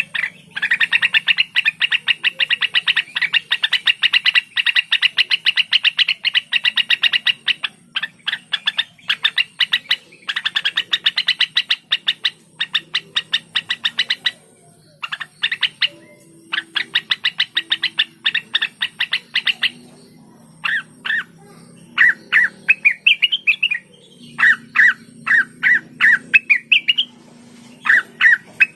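Cucak wilis, a songbird kept in Indonesia, singing loudly: long rapid-fire trains of sharp, quickly repeated notes in the first half, broken by short pauses. In the second half come shorter, more varied phrases with upward-sliding notes.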